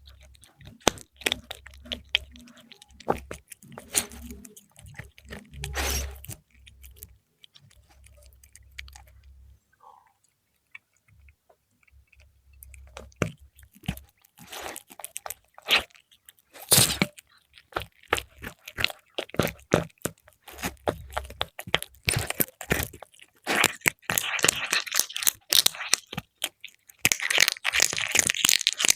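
A cat chewing and crunching fried milkfish in close-up, with irregular sharp crunches. There is a quieter pause about a third of the way in, and the crunching grows denser near the end.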